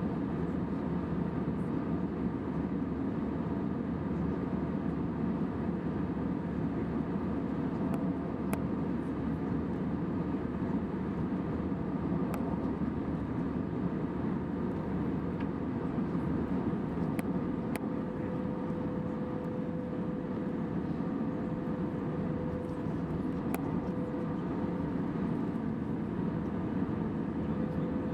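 Airbus A320 cabin noise in cruise: a steady, even roar of engine and airflow, with a faint steady hum joining in about two-thirds of the way through and a few faint clicks.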